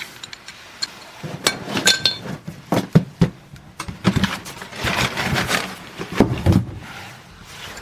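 Irregular metal clinks, knocks and clatter of tools and fittings being handled, with a short metallic ring about two seconds in.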